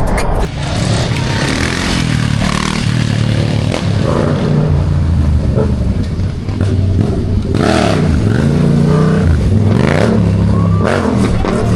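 A car engine revving hard, its pitch rising and falling several times with a deep dip and climb about nine seconds in.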